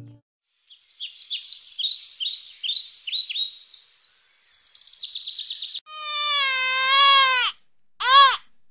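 Birds singing: a run of quick, high, falling chirps and then a fast trill. About six seconds in, a baby starts crying, first a long wavering wail and then a short cry, louder than the birds.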